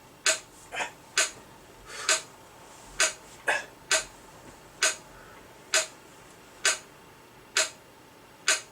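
Short percussive clicks on a steady beat, a little under one a second, with a couple of softer extra hits between them: the rhythm backing of a chant.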